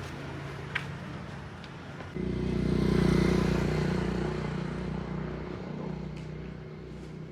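A motor vehicle engine runs close by: a steady low hum, then a louder engine sound that cuts in about two seconds in, swells, and fades away as the vehicle passes.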